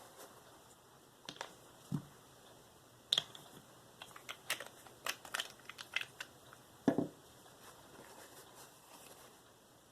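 Irregular light clicks and taps from a knife and sharpening gear being handled on a bench, with a dull knock about two seconds in and a louder one about seven seconds in.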